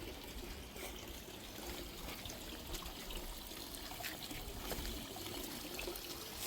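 Water trickling and splashing steadily into a garden pond, with scattered small splashes.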